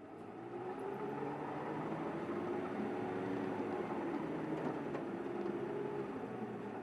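City bus engine pulling away under acceleration, heard from inside the bus: it grows louder about half a second in, the engine note climbs, then eases off near the end.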